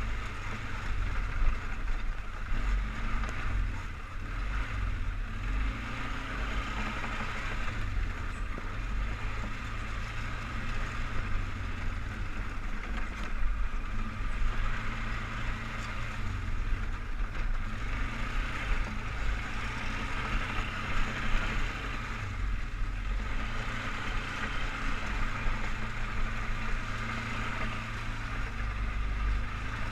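ATV engine, the single-cylinder four-stroke of a 2003 Polaris Sportsman 500 HO 6x6, running steadily while riding, a continuous low rumble that swells and eases a little.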